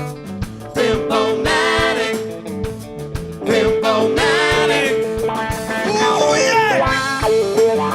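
Live rock band playing: a wavering, bending lead line over a held note and a steady drum beat.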